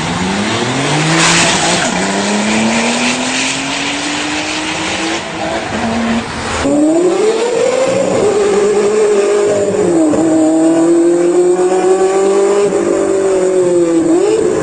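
Supercar engines accelerating hard, the engine note climbing steadily in pitch with a hiss of tyre or road noise. About seven seconds in it changes suddenly to a second car's engine revving high, its pitch rising and dipping several times.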